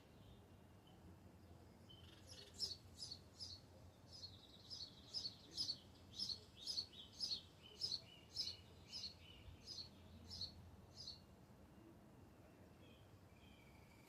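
A songbird singing a long run of short, high, downslurred notes, about two to three a second, starting a couple of seconds in and stopping about three seconds before the end.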